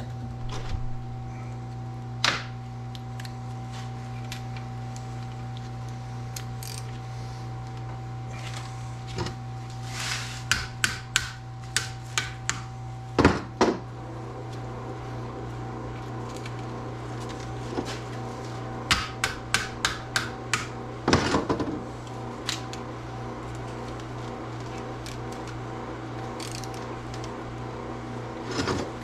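Hand tools clicking and knocking on the metal parts of a rammer being taken apart, in two runs of sharp clicks, over a steady low hum.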